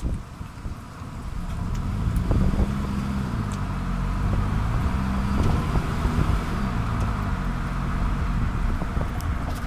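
Running noise of a 30-series Toyota Prius picked up by a camera mounted under its bumper: tyre and road rumble that builds up over the first couple of seconds as the car gets going, then holds steady with a low droning hum that wavers up and down in pitch and a few light knocks.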